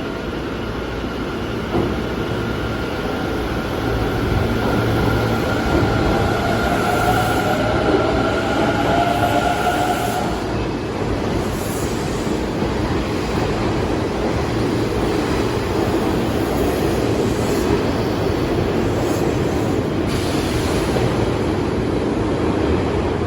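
Hanshin 1000 series electric train running with a steady rumble of wheels on rail. A faint motor whine rises slightly in pitch and dies away about ten seconds in. The noise grows a little louder about four seconds in.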